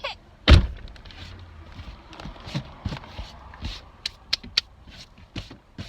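A heavy thump about half a second in, followed by scattered light knocks and a few sharp clicks.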